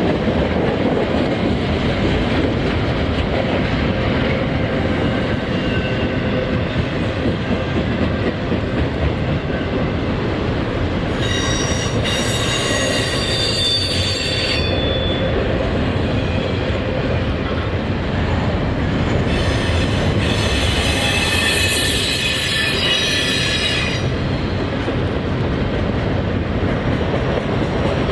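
Cars of a long CSX intermodal freight train rolling past with a steady rumble and clatter. Twice the wheels squeal in high, ringing tones: once a little under halfway through, for a few seconds, and again later for about four seconds.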